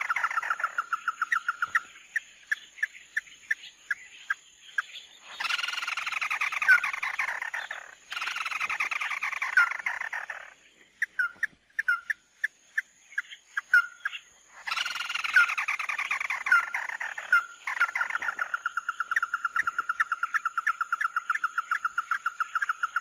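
Calls of the bird known in Vietnamese as 'mắt đỏ' (red-eye). Several bouts of rapid trills on one pitch, each a few seconds long, are broken by short pauses and single sharp chirps.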